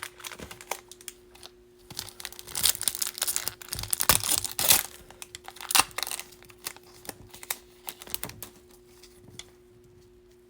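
A Bowman baseball card pack's foil wrapper being torn open and crinkled, with dense crackling loudest a few seconds in, then scattered light clicks and rustles of the cards being handled, thinning out near the end.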